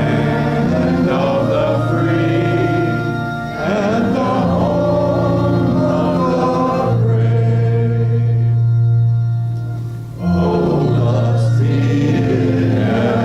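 Congregation singing a hymn with organ accompaniment, in long held phrases with short breaks about three and a half and ten seconds in.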